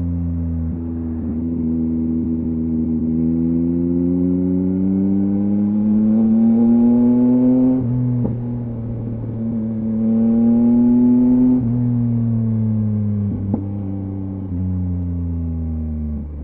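2023 Yamaha MT-09's inline three-cylinder engine through a LeoVince LV Race exhaust, pulling through the gears: the pitch climbs, breaks at a shift about eight seconds in, climbs again to a second shift near twelve seconds, then falls away as the throttle is eased off.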